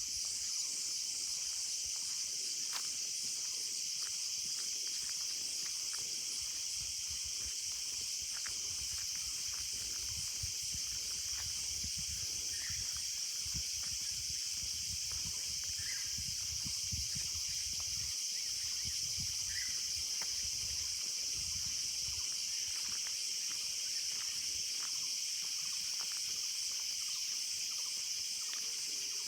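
Steady, high-pitched chorus of insects chirping in a forest, with a few short faint calls and some low rumbling in the middle.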